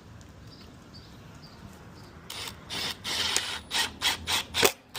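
A screw being driven into the plastic door panel of a Ram truck to close the armrest gap, in a run of short stop-start bursts. They begin about two seconds in, get shorter and closer together, and the last and loudest comes near the end.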